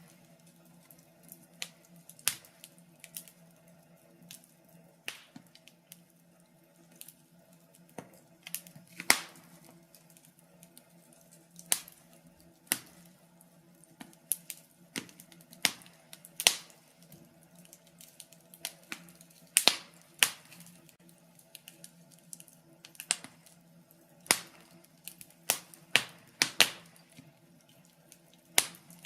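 Wood fire crackling in a fireplace: sharp irregular pops and snaps, sometimes several in quick succession, over a faint low steady hum.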